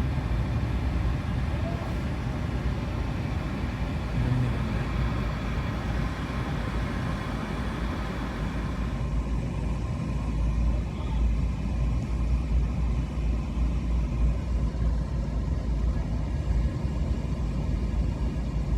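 A car being driven: a steady low rumble of engine and road noise. The higher hiss drops away about nine seconds in.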